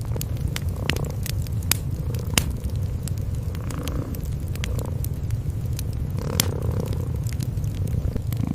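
Cats purring in a steady low rumble, with a wood fire crackling over it in frequent sharp pops.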